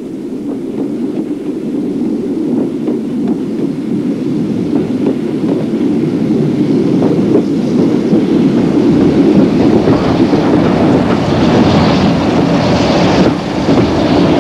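Train running along the rails, a steady rumble that grows louder over the first several seconds and gets hissier later on.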